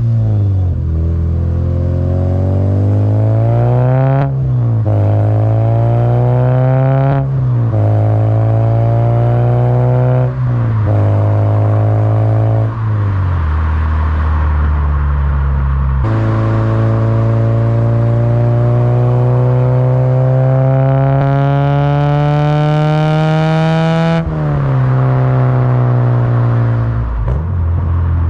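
Honda K20 four-cylinder engine of an 8th-generation Civic Si, breathing through a Skunk2 Alpha header and a Full Race 3-inch exhaust, pulling hard through the gears. Its note rises and falls back at each of several gear changes, then climbs in one long steady pull before a sudden drop near the end.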